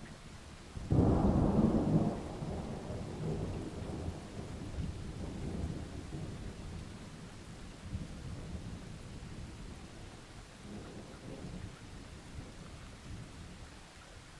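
A thunderclap breaks about a second in and rolls off into long low rumbling that fades over the following seconds, with a smaller swell of rumble later, over steady rain.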